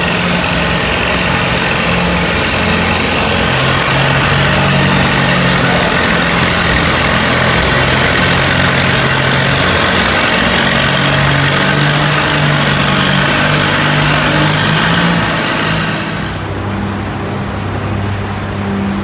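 Antique pulling tractor's engine running hard under load, its note shifting up and down. Near the end the harsh high-pitched noise drops away sharply, leaving the engine's lower note.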